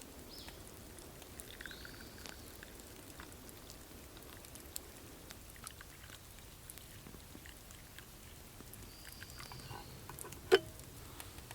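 Quiet forest ambience with a few short, high bird calls and scattered faint clicks and crackles. A single sharp crack stands out about ten and a half seconds in.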